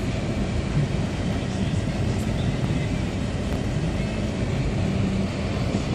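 Car driving on an unplowed, snow- and ice-covered street: a steady low rumble of engine and tyres.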